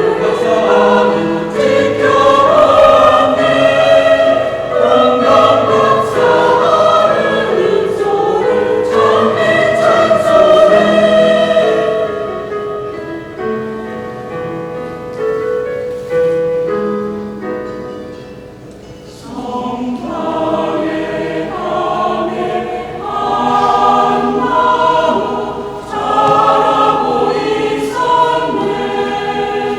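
Church choir singing a Christmas anthem with instrumental accompaniment. The singing softens and thins in the middle, then swells back to full voice about twenty seconds in.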